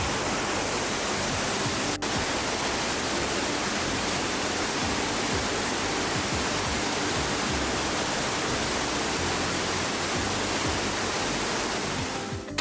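Shiwagara Falls pouring steadily: a dense, even rush of falling water.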